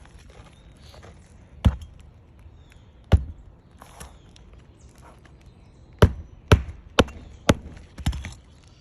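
Hammer blows driving roofing nails through a shingle: two single strikes, then a run of five at about two a second.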